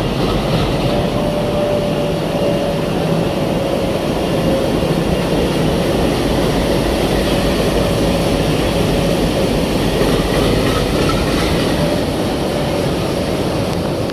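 Indian Railways WDG3A diesel locomotive, an ALCO 16-cylinder turbocharged engine, chugging as it moves slowly, with a steady high whine over the engine's low rumble.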